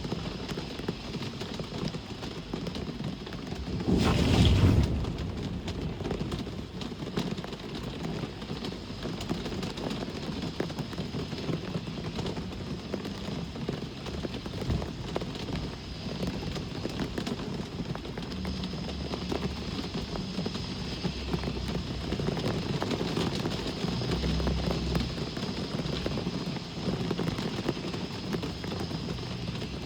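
Steady rain with road traffic going by, low rumbles of passing vehicles in the second half. A sudden loud burst, under a second long, stands out about four seconds in.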